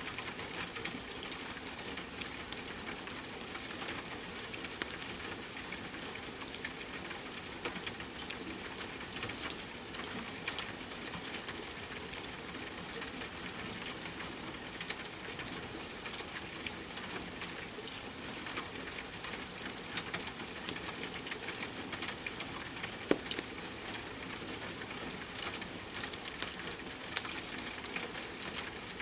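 Steady rain mixed with a crackling wood fire: a constant hiss with scattered sharp clicks and pops, one of them louder past the middle.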